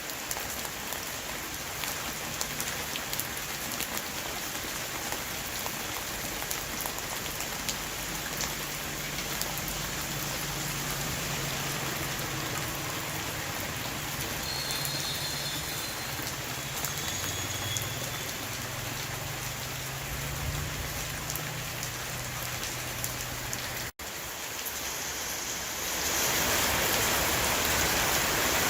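A rain shower falling steadily on a roof, with individual drops ticking through the hiss. After a brief break in the sound, the rain comes in louder and hissier near the end.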